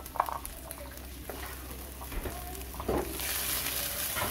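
Chopped ginger and whole spices sizzling in hot oil in a frying pan, with a few light scrapes as the pan is handled; the sizzle grows louder about three seconds in.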